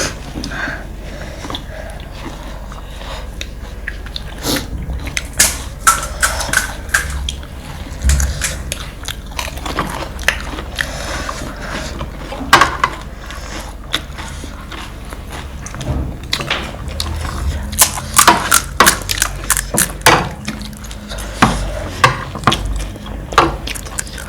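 Close-miked eating of crisp panipuri and chatpate: many sharp, irregular crunches as the crisp pieces are bitten, with chewing in between.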